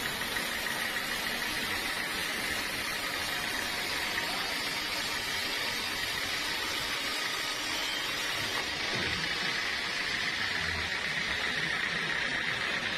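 Sawmill machinery running steadily: a constant noisy whir with a steady high whine through it.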